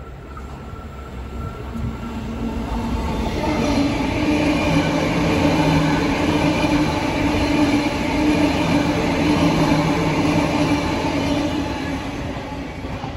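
Sydney Trains double-deck electric passenger train passing along the track beside the platform. Its rumble builds over the first few seconds, holds loud with a steady hum through the middle, and fades near the end as the train moves away.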